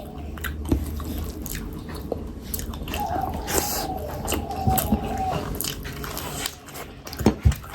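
Close-miked eating sounds of fish curry and rice: wet chewing, biting and lip smacks, with scattered clicks.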